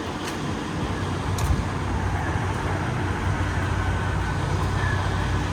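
Steady low hum of a semi truck's diesel engine running, with a couple of faint clicks about a second apart near the start.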